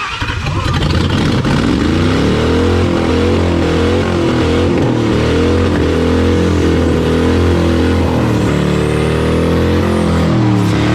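Ford Crown Victoria's V8 engine running loud and revved, its pitch wavering up and down unevenly.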